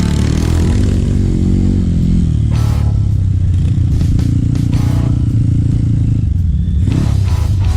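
Trail motorcycle engine running loud and steady, with the pitch rising and falling as it revs during the first couple of seconds and a brief rev near the end. Background music plays under it.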